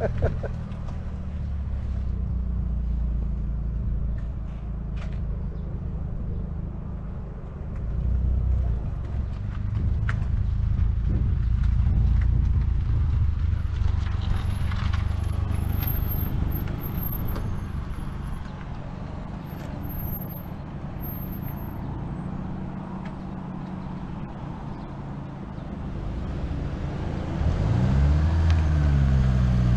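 A manual-transmission car's engine running at low revs as it creeps along and pulls away in first gear during clutch-control practice. The engine note rises as it accelerates near the end.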